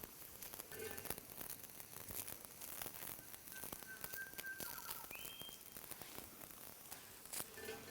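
Dim sims sizzling and spitting in a frying pan over a campfire, a fine steady crackle. Around the middle a thin high whistling tone is held for over a second, then a shorter, higher one follows.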